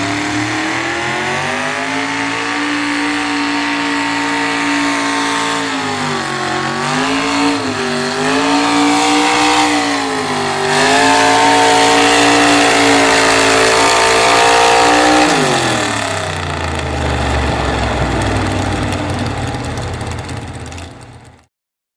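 Two-wheel-drive super stock pulling truck's engine held at high revs under load, its pitch wavering up and down for several seconds in the middle of the run. At about two-thirds of the way through the revs fall steeply as the throttle comes off, leaving a lower engine rumble that cuts off abruptly near the end.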